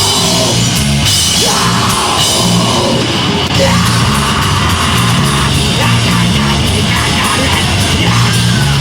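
A deathgrind band playing live and loud: heavily distorted guitars and bass over fast drums.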